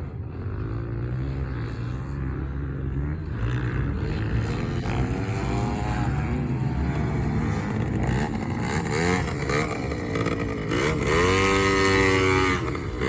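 Yamaha PW50 minibike's small two-stroke single-cylinder engine being ridden, its pitch rising and falling with the throttle. It gets louder and revs higher near the end.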